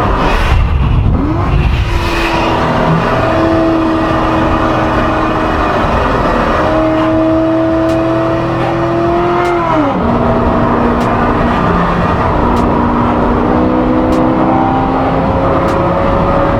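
An 840 hp C7 Corvette's 6.2-litre V8 pulling hard under acceleration. The engine note rises steadily in pitch, drops sharply at a gear shift about ten seconds in, then climbs again.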